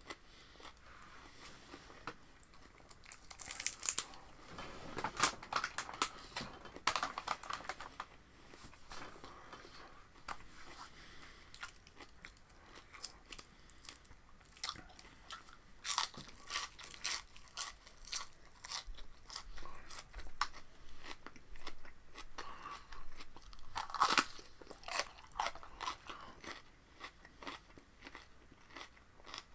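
A person biting and chewing raw cucumber with a wet, crisp crunch, in irregular clusters of crunches between quieter chewing. The loudest crunch comes late on.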